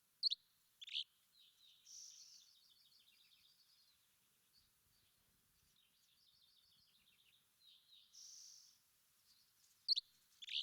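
Wild birds singing: two loud, sharp downslurred calls near the start and again near the end, with softer rapid twittering trills between them.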